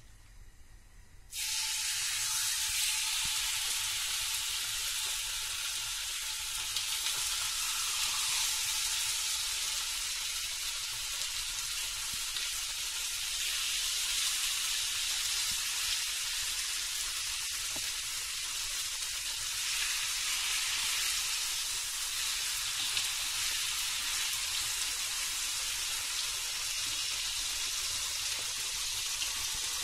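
Chicken pieces being laid into hot oil in a frying pan. The sizzling starts suddenly about a second in as the first piece goes in, then carries on steadily as more pieces are added.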